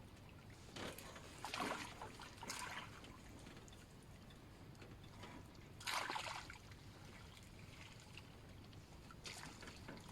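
Water sloshing and splashing in a few brief bursts, the loudest about six seconds in.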